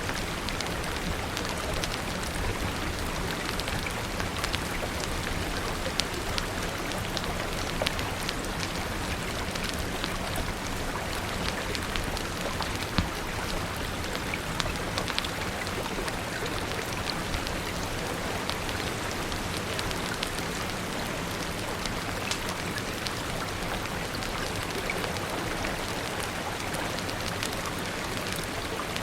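Steady rain falling, with scattered sharp crackles and a few louder pops from a wood fire.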